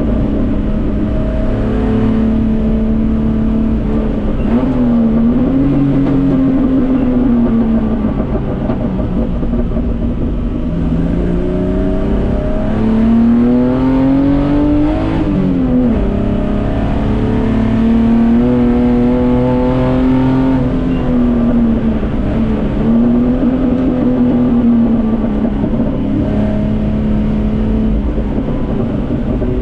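Datsun 240K race car's straight-six engine running hard, its revs rising and falling through gear changes and corners. The longest climb in revs, about halfway through, ends in a sudden drop.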